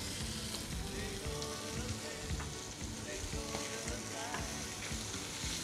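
Baby calamari tubes sizzling steadily as they fry in a hot pan.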